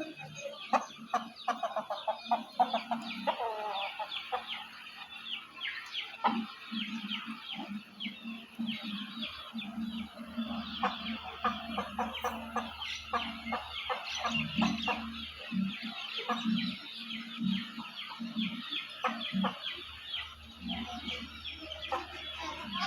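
Chickens: hens clucking in low, repeated calls while chicks cheep constantly in quick, high-pitched notes.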